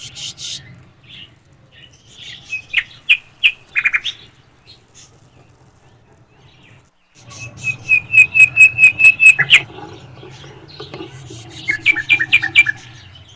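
Alexandrine parakeets calling: bouts of short, shrill, repeated chirps, with the longest and loudest run of about four calls a second in the middle and a shorter bout near the end.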